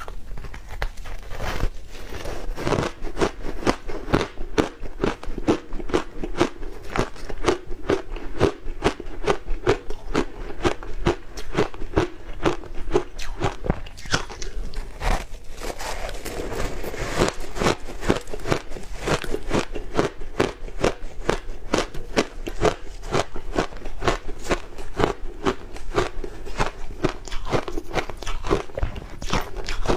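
Ice coated in matcha powder being bitten and chewed, with rapid crunches, several a second.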